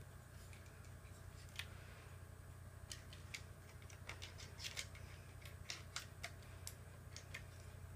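Light, irregular clicks and taps of a wooden cuckoo clock being handled, over a low steady hum.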